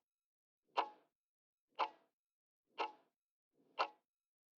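Clock-tick sound effect counting down a quiz answer timer, one sharp tick a second, four ticks.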